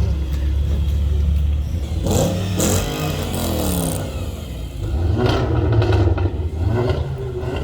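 Car engines running with a deep exhaust rumble, and one engine revving whose pitch falls away between about two and four seconds in.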